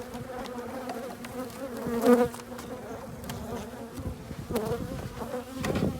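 Honeybees buzzing in a steady hum around an opened hive, swelling louder about two seconds in, with a few light clicks.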